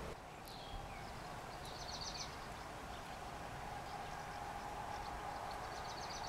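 Outdoor ambience after rain: a steady background hum and hiss, with a small bird giving two short bursts of rapid high chirps, about two seconds in and again near the end.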